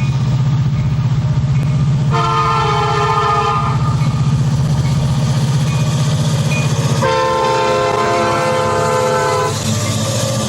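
Diesel freight locomotive's multi-chime air horn sounding twice, a short blast about two seconds in and a longer one about seven seconds in, over a steady low diesel engine rumble.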